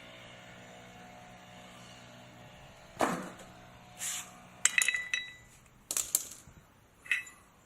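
Loose metal engine parts being handled: a knock about three seconds in, then a series of short, sharp clinks, some ringing briefly, between about four and seven seconds. A faint steady hum runs under the first half.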